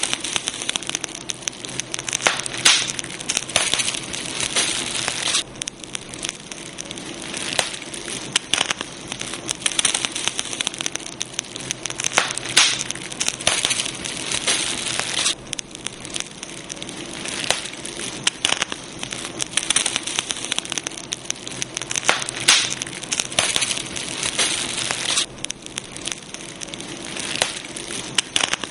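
Campfire burning, with dense, irregular crackling and frequent sharp pops.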